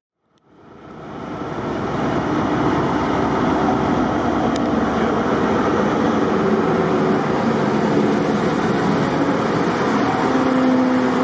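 Diesel locomotive running with its train, a loud steady sound that fades in over the first two seconds.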